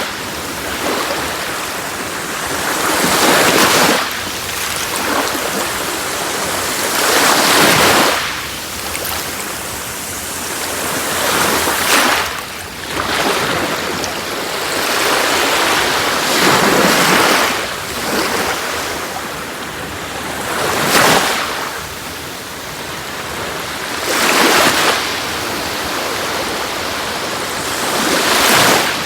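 Sea waves breaking on a shore, one surge of surf about every four seconds with a steady wash between them.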